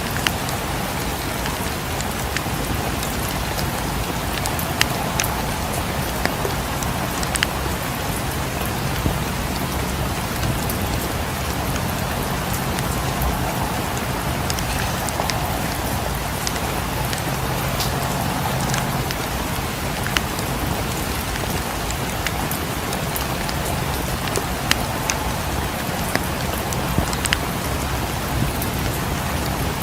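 Steady rain falling, with a wood fire crackling in a fireplace: scattered sharp pops over the even hiss of the rain.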